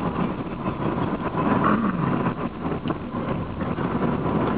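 Steady engine and road noise inside a moving Honda car's cabin.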